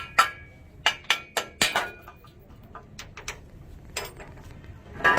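Hammer blows on metal in an irregular run: several sharp, ringing strikes close together in the first two seconds, a few lighter taps after, and one loud strike near the end that rings on.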